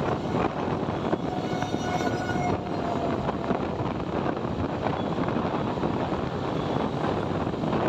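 Steady road noise heard from a moving motorcycle: engine, tyres, passing traffic and wind rushing over the microphone. A faint tone sounds from about one and a half to three seconds in.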